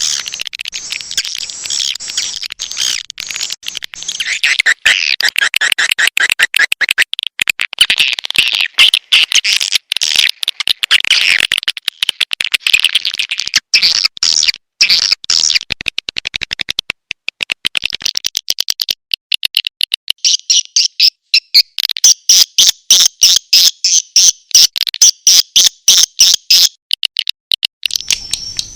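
Swiftlet calls played as a lure recording for swiftlet houses: dense high twittering and chirping, which turns about two-thirds of the way through into a fast, regular train of sharp chirps.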